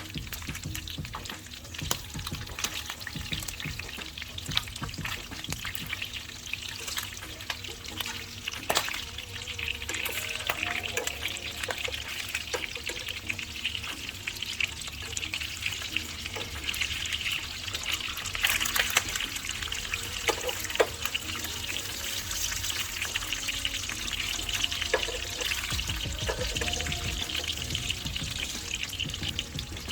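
Beef frying in hot oil in a pan: a steady sizzling crackle, with a few sharper clicks.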